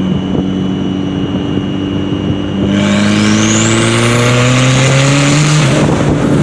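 Turbocharged Scion tC four-cylinder with an open exhaust, heard from inside the cabin, accelerating hard in third gear with the engine note climbing steadily. About a third of the way in, a turbo whistle sweeps sharply upward as boost comes on and the sound gets louder. Near the end the engine note drops.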